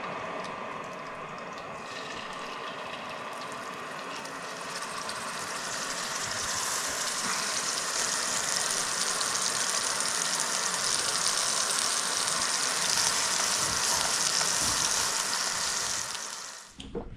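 Venison backsteak sizzling as it fries in a hot pan: a steady sizzling hiss that grows louder about six seconds in, then cuts off suddenly near the end.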